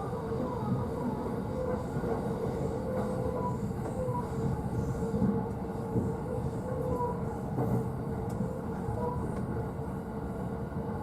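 Running noise of a JR East E531 series train heard inside the upper deck of a double-decker Green car. A high wheel-squeal tone wavers in and out over the steady rumble, with a couple of faint clicks near the end.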